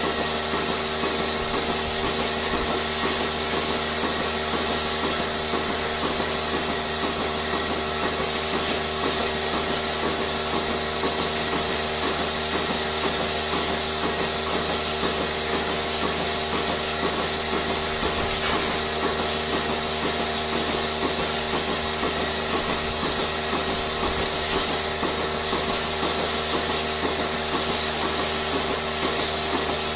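Steady machine noise: a high hiss and a hum carrying several steady tones, with a fast, regular pulsing underneath.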